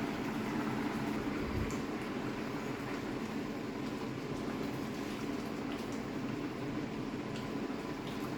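A pot of vegetables in coconut cream simmering and bubbling steadily, with faint pops and a steady low hum underneath.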